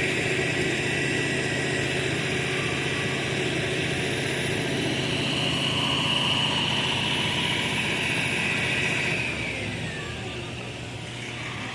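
A machine engine runs steadily with a high whine. About nine seconds in, the whine slides down in pitch and the sound drops in level, as if the machine is easing off.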